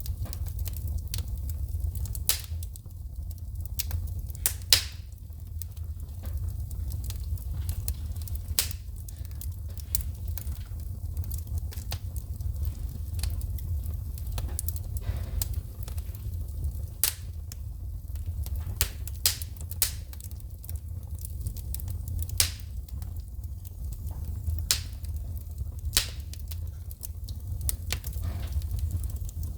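Wood fire in a fireplace crackling, with sharp, irregular pops of burning logs throwing sparks over a steady low rumble.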